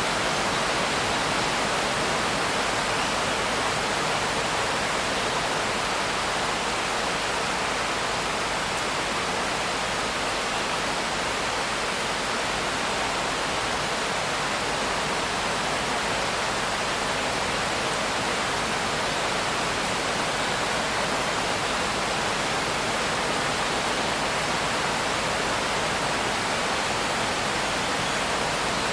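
Steady, heavy rain falling as an even, unbroken hiss, with no separate drops or thunder standing out.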